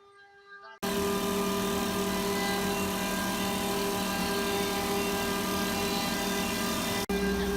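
CNC wood lathe running: a steady motor hum with a strong low tone over an even hiss. It starts abruptly about a second in and cuts out for an instant near the end before carrying on.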